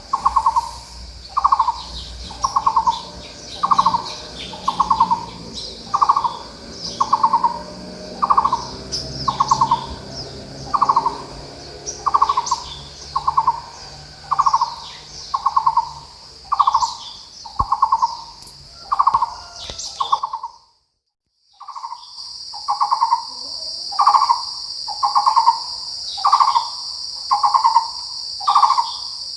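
Taiwan barbet calling: a long, steady series of short hollow notes repeated about once every 0.7 seconds. Behind it are a steady high insect buzz and small high chirps of other birds. All sound cuts out for about a second some two-thirds of the way through, then resumes.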